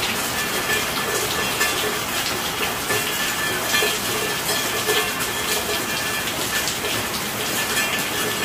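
Steady heavy rain: a continuous hiss of falling water with scattered sharp drop ticks.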